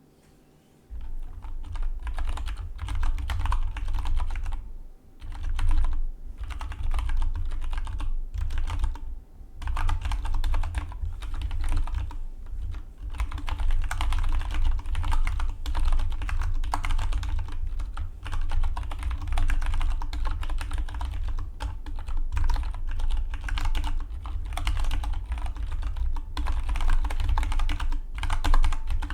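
Fast typing on a Dygma Defy split mechanical keyboard: a dense stream of key clacks that starts about a second in, with brief pauses around five and nine seconds.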